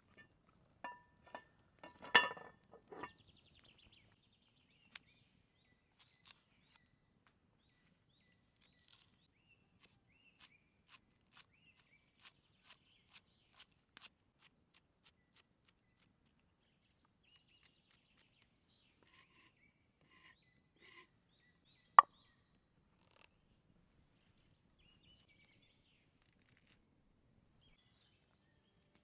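A clatter of cookware knocks, then a run of light knife strokes on a cutting board, about two a second, as mushrooms are cut up. A single sharp knock comes near the end.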